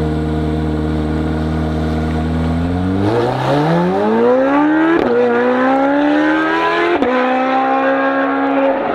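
C8 Corvette Z06's flat-plane-crank V8 through an AWE exhaust, holding a steady note, then accelerating hard with two quick upshifts about five and seven seconds in, each one a sudden drop in pitch.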